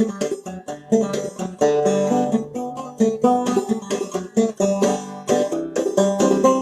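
Open-back banjo played solo in old-time clawhammer style, a brisk fiddle-tune melody of sharp plucked notes over a ringing drone.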